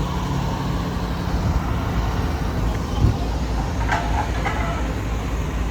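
Fire engine running with a steady low rumble. There is a single knock about three seconds in and a few short pitched chirps about a second later.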